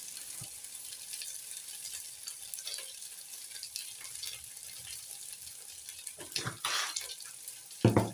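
Raw rice frying in hot cooking oil in a metal pot, a steady sizzle, with a couple of brief louder scrapes or knocks from stirring near the end.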